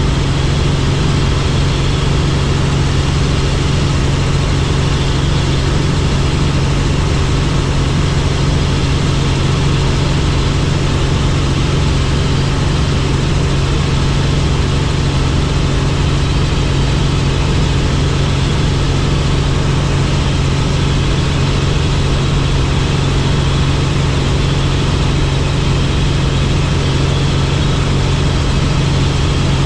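Helicopter in flight: steady, loud engine and rotor drone with a strong low hum that holds constant throughout.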